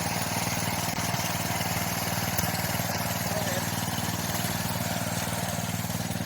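Garden tractor engine running steadily at low speed, with no change in pitch.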